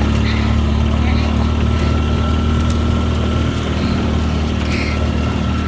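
RTV utility vehicle's engine running steadily while driving, with a constant high whine above the low engine hum.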